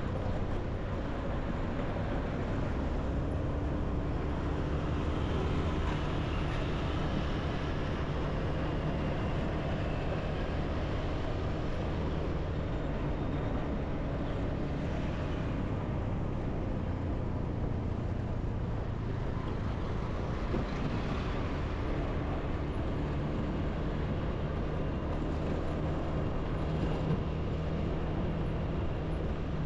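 Motorbike engine running steadily while riding, with continuous road noise.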